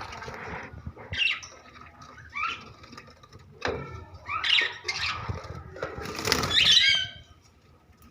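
Several budgerigars in a colony cage chirping, with bursts of wing flapping; the loudest flurry of flapping and chirps comes about six seconds in.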